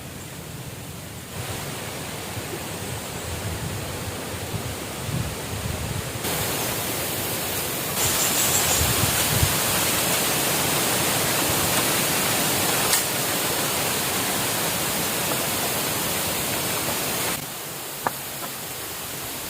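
Steady rushing water noise with no distinct tones. It jumps louder abruptly about a second in and twice more a few seconds later, then drops suddenly near the end, as if separate shots were cut together. There is one short click shortly before the end.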